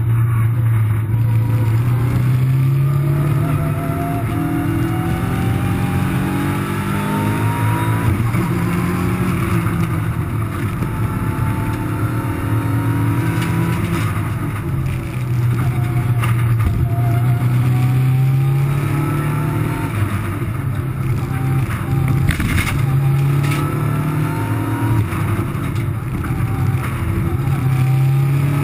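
In-cabin sound of a race car's engine at full throttle on a hill climb. The engine note rises through each gear and drops back at every shift, over and over, with a few sharp knocks along the way.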